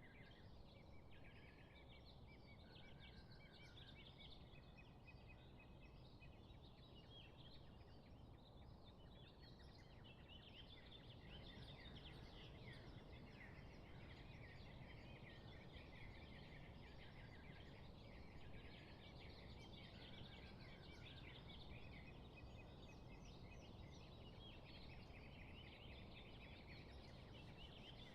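Faint chorus of many small birds chirping, dense and continuous, a little louder from about eleven seconds in, over a steady low background hiss.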